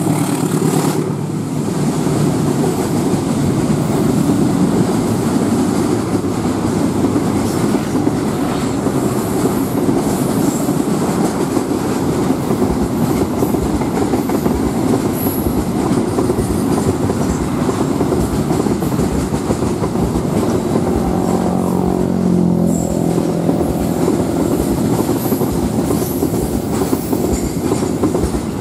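A long freight train of covered cement wagons rolling past: a steady loud rumble of steel wheels on the rails, with rapid clacking over the rail joints.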